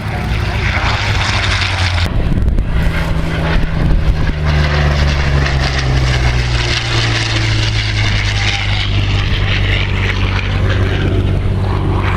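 Piston-engine propeller warbird flying past, a steady loud engine drone whose pitch falls between about three and seven seconds in as it goes by.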